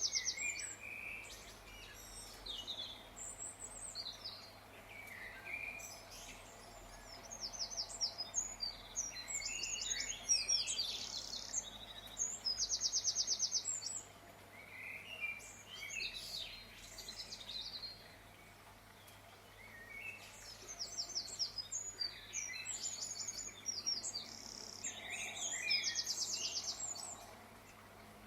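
Birds chirping and singing, with fast trills that come back every few seconds between shorter chirps, over a faint steady low hum.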